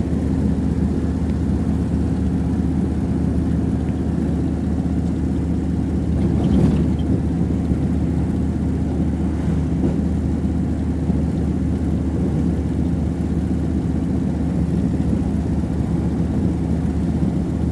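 A vehicle engine running steadily with a constant low hum. There is a brief louder swell about six and a half seconds in.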